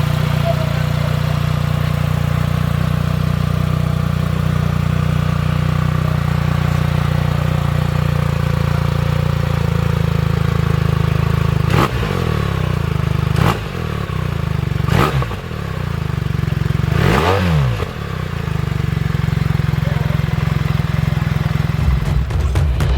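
BMW R 1300 RT motorcycle's flat-twin boxer engine idling steadily, then blipped on the throttle four times, the revs rising and dropping quickly each time, the last blip the longest, before settling back to idle.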